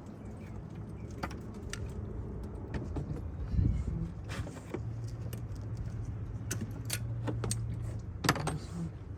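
Metal hand tools and sockets clinking and rattling as they are handled, with scattered sharp clicks and a louder knock about three and a half seconds in, over a steady low hum.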